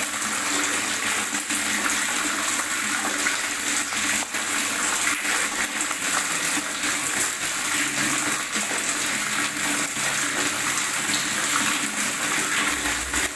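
Running water gurgling steadily: a continuous rush dotted with many small splashes and bubbling pops.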